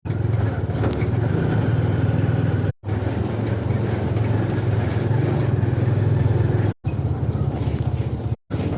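A vehicle engine running steadily with a low, pulsing rumble. It cuts out abruptly three times for a split second.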